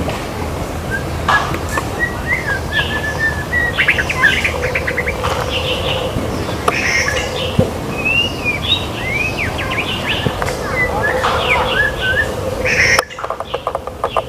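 White-rumped shama singing a varied song of short whistles, rising and falling slurred notes and chirps over a steady background hiss. About a second before the end, the background drops suddenly and a quick run of clicking notes follows.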